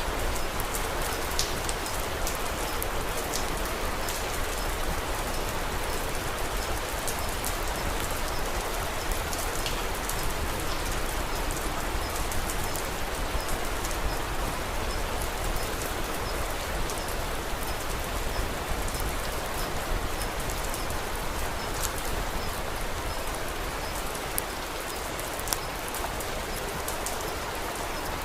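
Steady rain pattering on a surface, with scattered sharp little ticks throughout.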